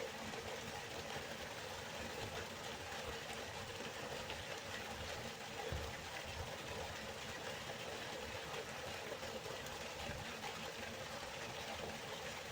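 Waterfall: water rushing and falling in a steady, unbroken roar of noise.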